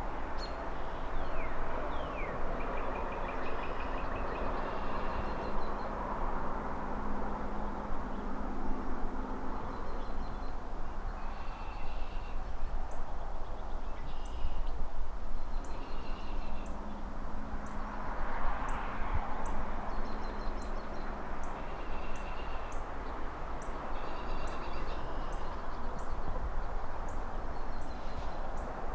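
City ambience: a steady rush of distant traffic and wind in trees that swells and fades every several seconds, with birds chirping in short repeated phrases over it and a run of quick high chirps in the second half.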